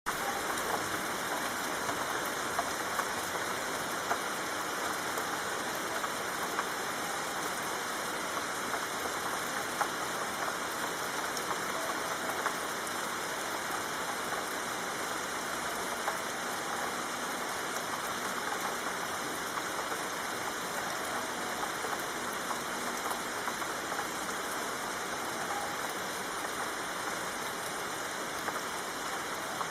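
Soft rain falling steadily: an even hiss with scattered ticks of individual drops.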